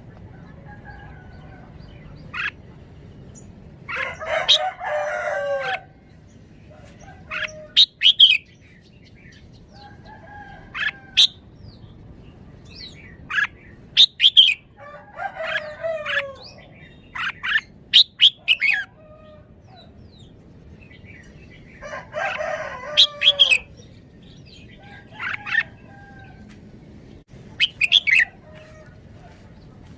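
Red-whiskered bulbul singing short, sharp whistled phrases every few seconds. A rooster crows about three times in the background.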